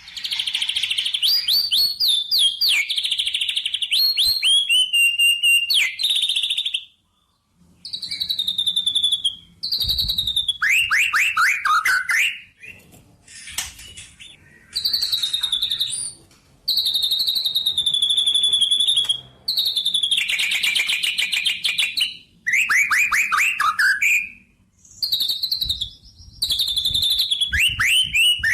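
A songbird singing in repeated phrases of fast chirps and trills, often sweeping downward in pitch. Each phrase lasts a second or two, with short pauses between.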